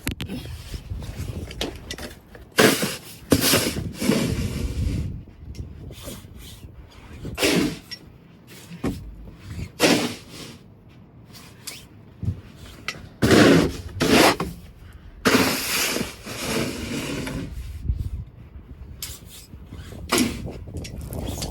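A snow shovel scraping and pushing snow across a hard surface in repeated uneven strokes, every one to three seconds.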